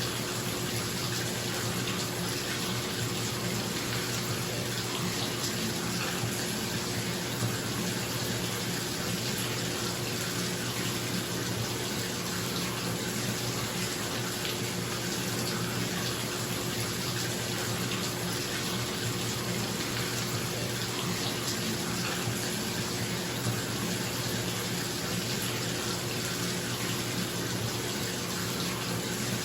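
Bathtub tap running steadily, water pouring into the tub, with a bathroom exhaust fan humming underneath.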